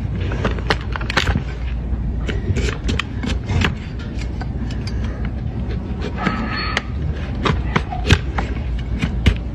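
Hoof-trimming tools cutting and scraping a donkey's hoof: irregular sharp clicks and scrapes over a steady low rumble.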